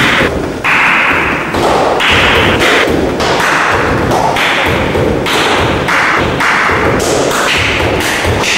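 Dancers' feet and bodies striking a wooden floor: a dense, uneven run of thuds and taps, with bursts of brushing noise as they step, slide and shift their weight.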